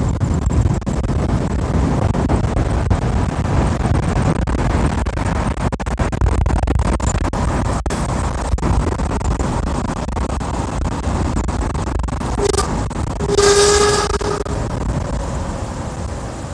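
Wind and road rumble on the microphone of a moving bicycle, with a short horn honk near the end.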